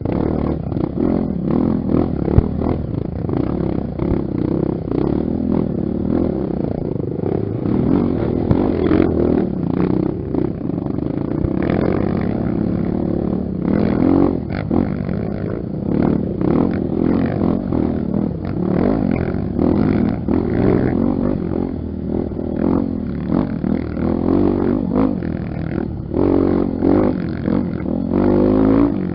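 Honda XR 250 Tornado's single-cylinder four-stroke engine running on a dirt trail, its pitch rising and falling with the throttle, with frequent knocks and rattles.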